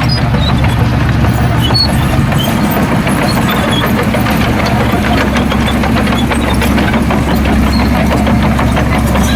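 Heavy diesel engine of earthmoving equipment running steadily, deep and even, without change.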